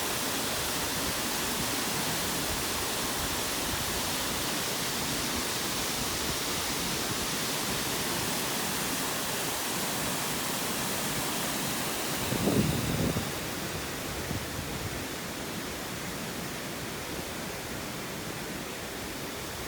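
Steady rush of floodwater pouring in, an even hiss-like roar. About twelve seconds in there is a brief low rumble, and after it the rush is a little quieter.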